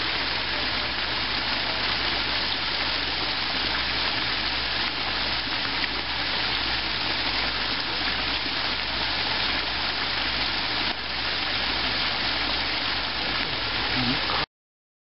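Steady loud rushing noise of a grass wildfire burning in strong wind, with a low rumble beneath; it cuts off suddenly near the end.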